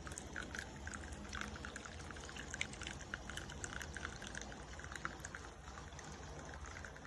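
Small tabletop rockery waterfall fountain running: water trickling and splashing down the rocks in a steady, irregular patter of little drips and splashes.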